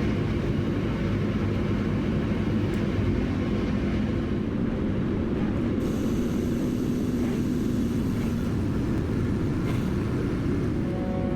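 Heavy diesel machinery engine running steadily: a low, even rumble with no revving.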